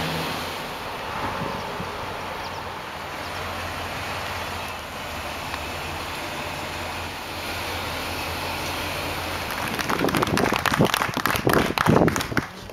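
Lifted Jeep Wrangler's engine idling steadily. About ten seconds in, it gives way to a run of loud, irregular claps and knocks.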